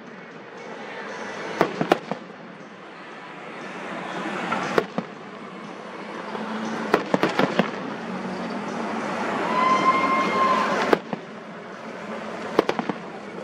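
Fireworks going off: a series of sharp bangs spread irregularly over a hissing, crackling background that swells twice. About ten seconds in, a high whistle-like tone holds for about a second before another bang.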